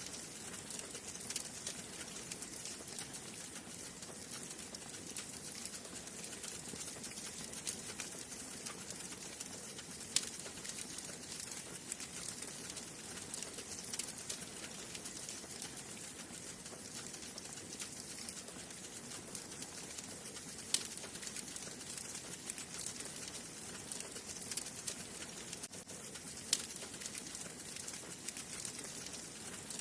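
Wood fire burning in a fireplace: a steady soft hiss full of fine crackles, with a few sharper pops from the burning logs.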